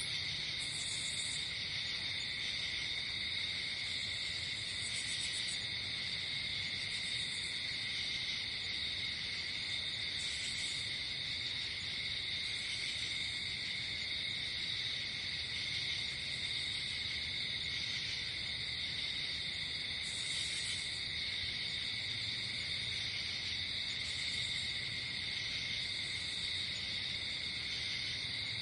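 Night insect chorus: crickets trilling steadily on several high pitches at once, with a higher, shorter buzzing trill repeating every two to three seconds.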